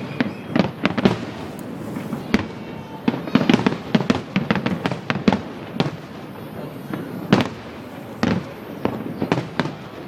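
Fireworks going off in quick, irregular succession: a steady run of bangs and crackles, packed most densely from about three to six seconds in.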